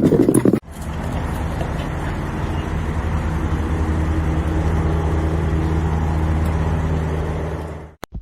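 Steady, unchanging engine or motor hum, like a vehicle running, that starts after a cut about half a second in and stops suddenly near the end.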